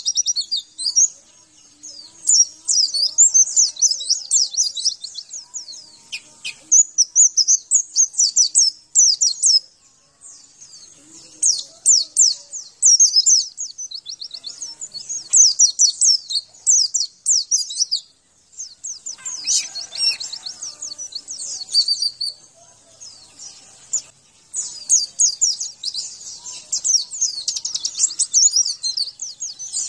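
White-eye (pleci) song: rapid, high-pitched twittering chirps in bursts of a second or two, separated by short pauses.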